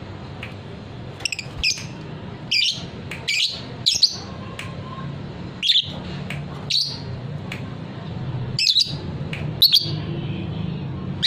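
Young lovebird giving a dozen or so short, sharp high chirps at uneven spacing, over a steady low hum.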